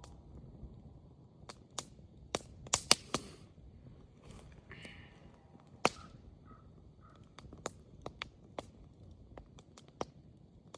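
Wood fire crackling: irregular sharp pops, with a quick run of the loudest a couple of seconds in and another loud single pop near six seconds. Faint short bird calls in the background.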